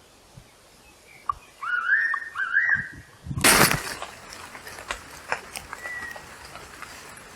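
Wild birdsong: two whistled notes that rise and wobble, then a loud, short harsh noisy burst about halfway through, followed by scattered short clicks and brief high notes.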